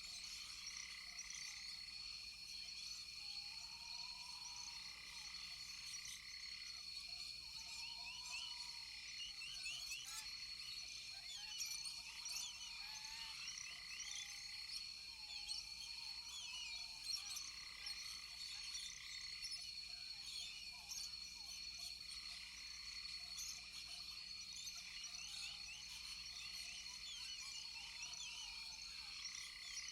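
Rainforest chorus of frogs and insects: a steady high insect whine under many quick overlapping chirps, with a lower swooping call repeating every few seconds.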